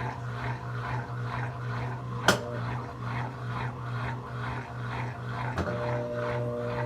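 Brastemp 17 kg washing machine running its quick cycle: a steady motor hum under a rhythmic, repeating swish. A sharp click about a third of the way in, and another near the end, after which a steady higher whine joins the hum.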